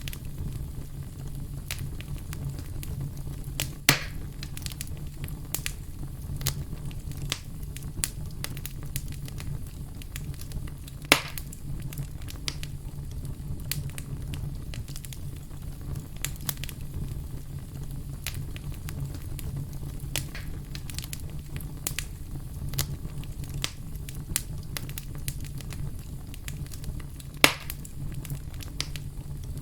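Wood fire burning in a fireplace, crackling steadily over a low rumble of the flames, with three louder pops of the burning wood, at about 4, 11 and 27 seconds in.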